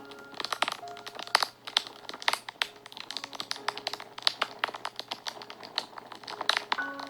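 Wood fire crackling and popping, with many sharp irregular snaps, over soft background music of a few long held notes.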